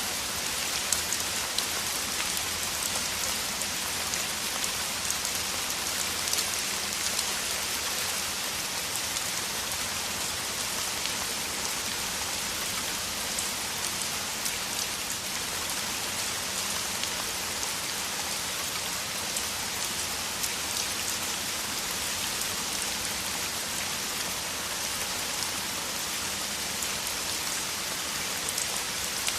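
Heavy rain falling steadily: a dense, even hiss with many single drops ticking through it.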